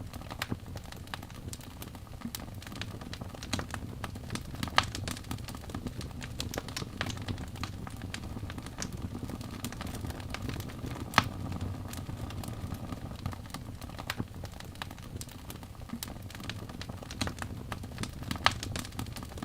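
Wood fire burning in a fireplace: a steady low rumble of flames with irregular sharp crackles and pops from the logs, three of them louder than the rest.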